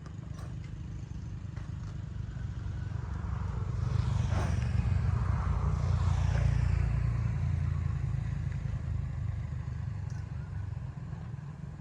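Motorbike engine running, growing louder to a peak about halfway through and then fading, as of a bike passing or pulling away.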